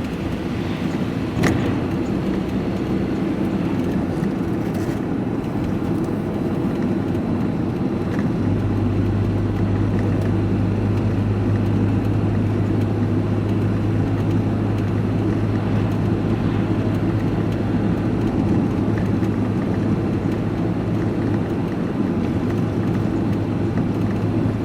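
A vehicle's diesel engine and tyre noise heard from inside the cab while driving, a steady low drone. A short click comes near the start, and about eight seconds in a strong, steady engine hum sets in and holds.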